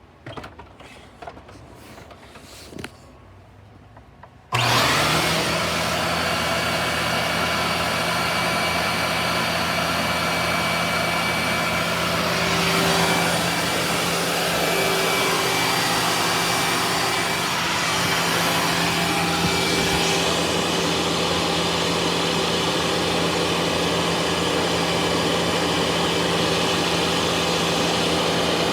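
Self-propelled upright vacuum cleaner: a few quiet clicks of handling, then about four and a half seconds in the motor switches on abruptly and runs steadily with a constant whine.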